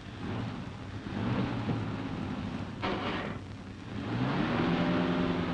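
Car engine running and speeding up, its pitch rising about four seconds in and then holding, over the hiss of an old film soundtrack, with a short burst of noise about three seconds in.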